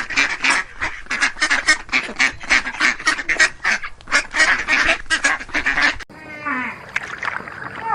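A flock of ducks quacking in a rapid, overlapping chatter. It cuts off abruptly about six seconds in, and a short animal call falling in pitch follows.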